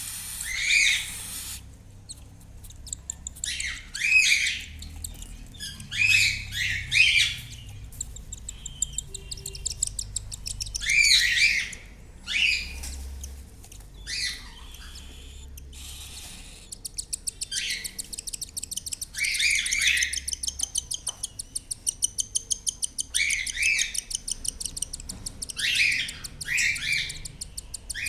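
Cockatiels in a nestbox, parents and chicks, giving repeated short scratchy calls. About halfway through a fast, rhythmic chatter of short ticks starts and runs on between the calls.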